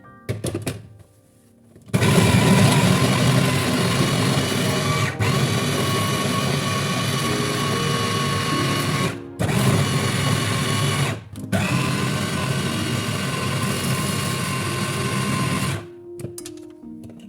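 Electric kitchen blender motor running at full speed through food. It starts about two seconds in, cuts out briefly three times in between, and stops near the end.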